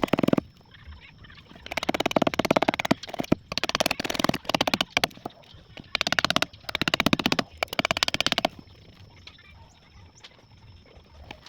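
A hand tool rasping on the wood of the sheath in about five bursts of rapid back-and-forth strokes, each one to one and a half seconds long, stopping about eight and a half seconds in.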